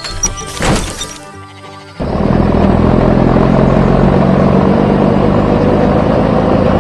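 Cartoon background music with a quick whoosh about a second in. Then a loud, steady vehicle engine starts suddenly about two seconds in and keeps running.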